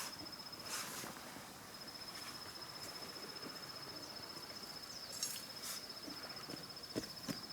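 An insect trilling steadily on one high note with a fast pulsing buzz. It drops out briefly in the first second and then runs on. A few soft clicks or knocks come near the end.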